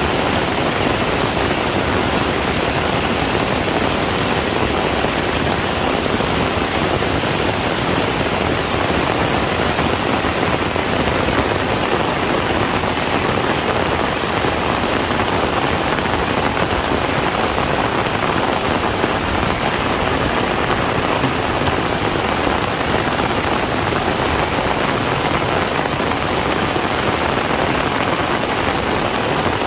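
Heavy rain falling steadily, a dense even hiss of drops on surfaces with no breaks.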